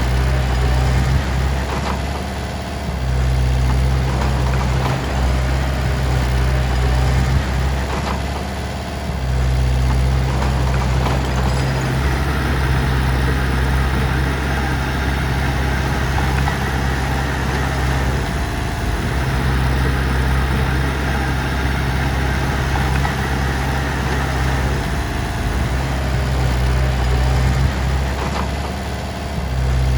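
Heavy diesel engine of a work machine running steadily, its low drone dipping briefly every several seconds as the load or throttle changes.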